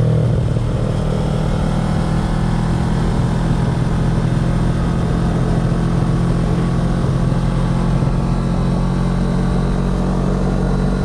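Kawasaki ER-6n 650 cc parallel-twin engine running through an SC Project carbon slip-on exhaust, holding a steady pitch under way.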